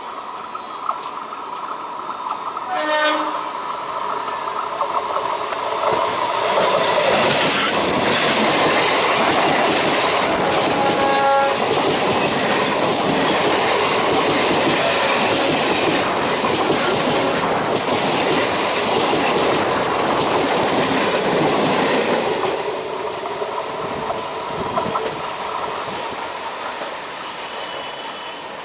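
Electric multiple unit local train giving a short horn blast about three seconds in, then running past close by at speed. Its wheels clatter over the rail joints and the rolling noise is loud for about fifteen seconds, with another brief horn note midway. The noise drops off as the train goes away.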